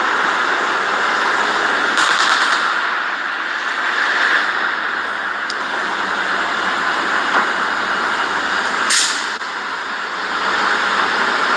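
A loud, steady noisy hiss and rumble, broken by sharp bangs about two seconds and nine seconds in. These are the booms that recur overhead every 10 to 20 seconds.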